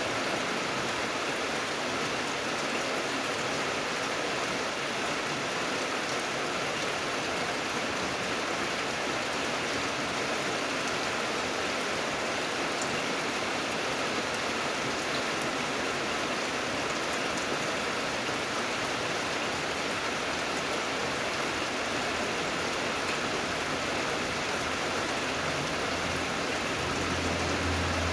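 Steady rain falling, a dense even hiss of drops on surfaces. A low steady hum joins near the end.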